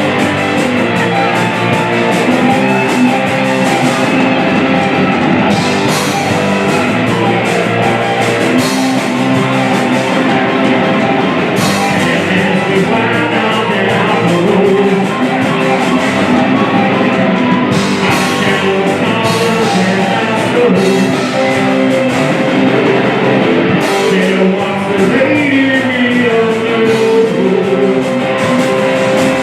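Rock music played loud, led by guitar, with a singing voice and drums.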